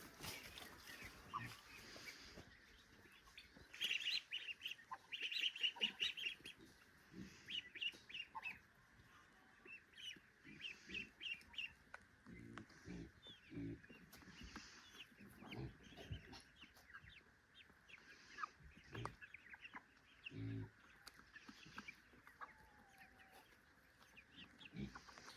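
Poultry calling: clusters of rapid, short, high-pitched peeps, loudest a few seconds in, with a few lower calls later, over a faint steady high hum.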